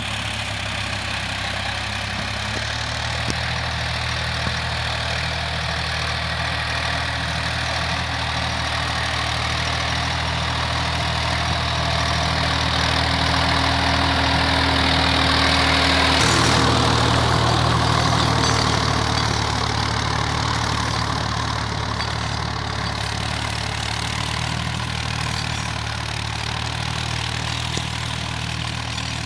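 Tractor diesel engine running steadily with a low, even throb. It grows louder toward the middle, changes note about halfway through, then eases back.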